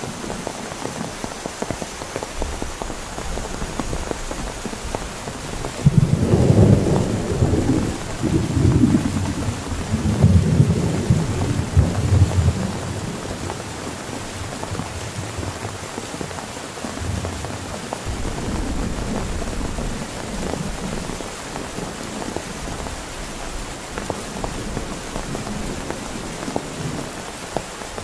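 Heavy rain falling steadily, with a long roll of thunder that starts about six seconds in and rumbles on for several seconds, then a fainter rumble later.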